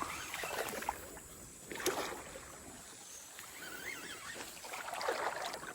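Water splashing in a few separate bursts, near the start, about two seconds in and again near the end.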